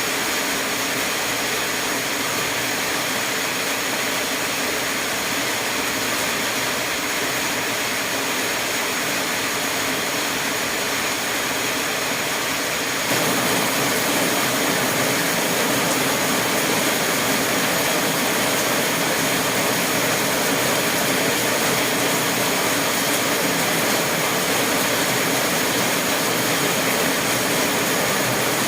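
Steady rushing noise, like a fan or burner running, that gets louder and holds at the higher level from about halfway through.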